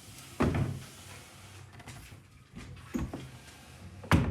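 Furniture being moved back into place on a hard floor: a few separate knocks and short scrapes of chair and table legs, the sharpest and loudest near the end.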